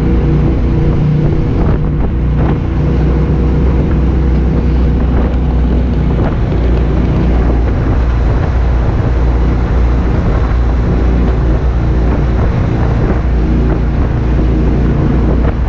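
800-horsepower jet boat running steadily under way, its engine drone heard with water rush and wind buffeting the microphone.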